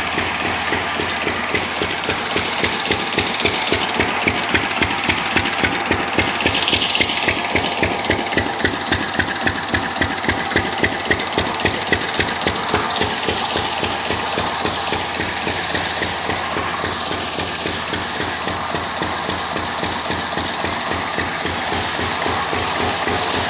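An engine running with a steady, even beat of pulses. The beat is a little stronger through the middle stretch.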